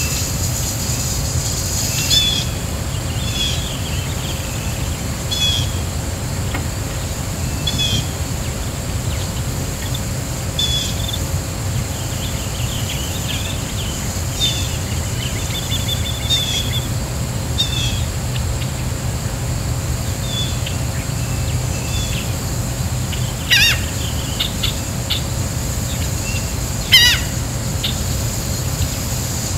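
Birds chirping outdoors: short, high chirps every second or two, with two louder sharp calls near the end, over a steady low hum.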